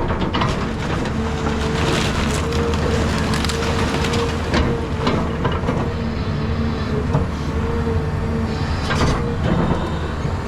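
Caterpillar 323 hydraulic excavator's diesel engine running steadily under load while the wooden house frame it is tearing into cracks and splinters in repeated sharp snaps.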